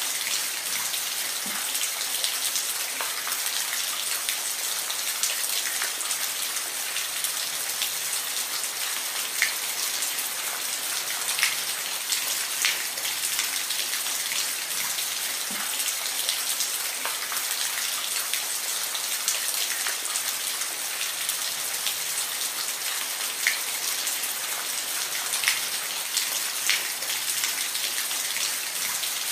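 Steady rain falling, a continuous hiss with scattered close drop impacts ticking over it.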